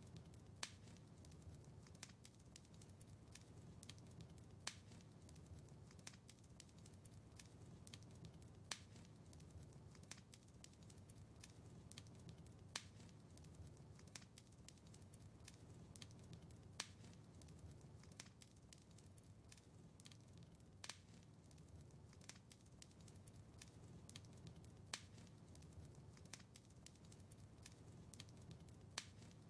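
Faint wood fire in a fireplace, crackling steadily over a low rumble of flame, with small snaps throughout and a louder pop about every four seconds.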